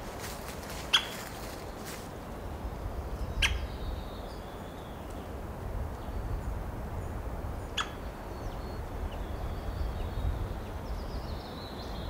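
Faint high bird calls, with three sharp single taps about 1, 3.5 and 8 seconds in, over a low wind rumble.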